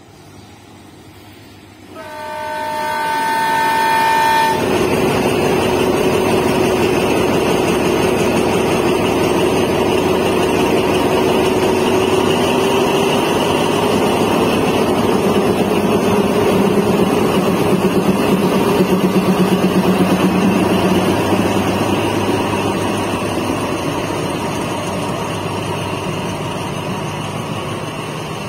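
A train horn blows one chord-like blast of about two and a half seconds, then a diesel locomotive hauling passenger coaches runs past at close range, its engine running over the rumble of wheels on the rails, fading slowly near the end.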